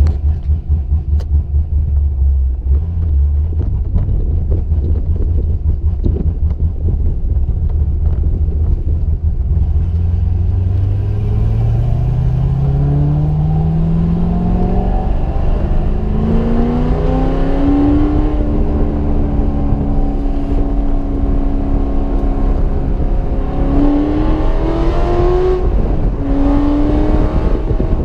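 Car engine under way: a low rumble at first, then the revs climb steadily from about ten seconds in, hold, climb again and drop sharply near the end as it shifts up.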